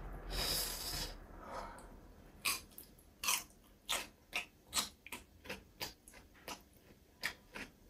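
A person chewing and eating: a string of short wet mouth clicks and smacks, about two a second, after a soft hiss in the first second or so.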